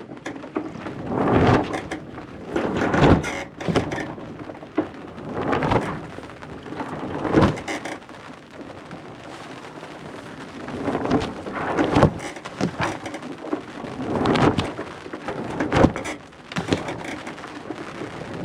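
Sails slatting and flogging in light air: irregular, noisy flaps and swishes coming every second or two, the sign of too little wind to keep the sails full.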